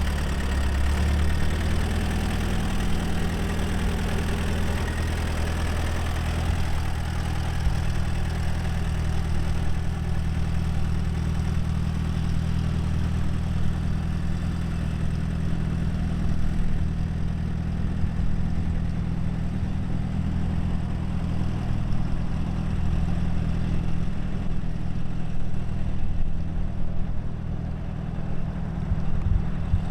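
1951 Allis-Chalmers Model B tractor's four-cylinder gasoline engine idling steadily.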